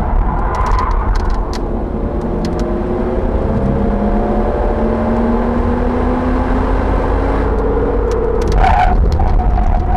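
Audi RS4's engine under acceleration, heard from inside the car with road noise underneath. Its pitch climbs steadily for several seconds, then breaks off near the end with a few sharp clicks.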